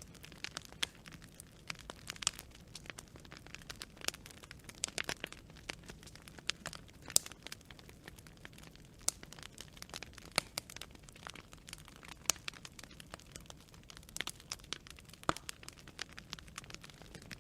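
Wood fire burning, with irregular sharp crackles and pops over a low steady hiss.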